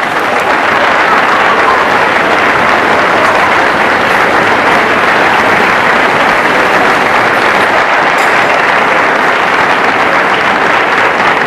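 Audience applauding, steady and loud throughout.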